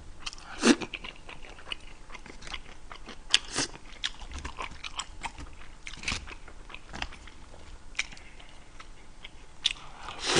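Close-miked chewing of a man eating with chopsticks: irregular wet smacks, clicks and a few crunches.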